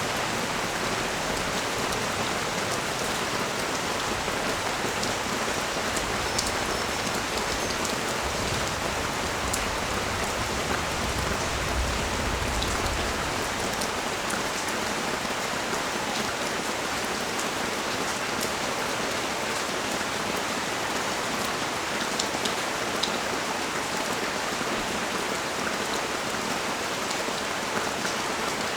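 Steady rain falling on the street and nearby surfaces, an even hiss with scattered individual drop ticks. A low rumble swells for a few seconds near the middle.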